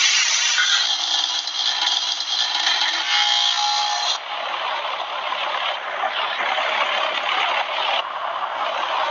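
Bryant 213BNA036 heat pump's outdoor unit in a defrost cycle: a loud, steady rushing hiss with rattling. The sound changes character suddenly just before the start and again about four seconds in.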